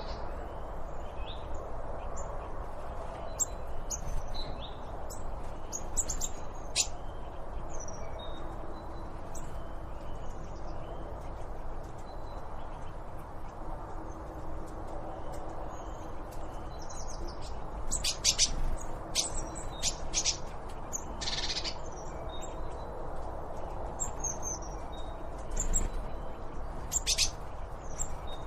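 Several wild birds chirping and calling over a steady background hiss. There is a run of louder, sharp calls about two-thirds of the way through.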